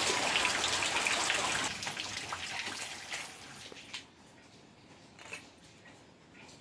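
Rain falling steadily, thinning after a couple of seconds and dropping away about four seconds in, leaving quiet with a few light taps and clicks.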